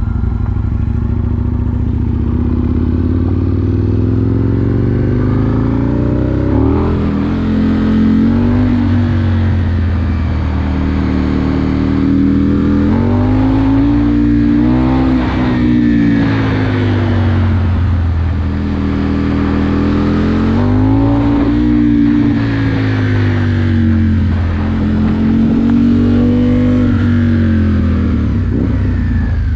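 Aprilia Tuono 1000R's V-twin engine running while being ridden, its pitch rising and falling several times as the throttle is opened and closed.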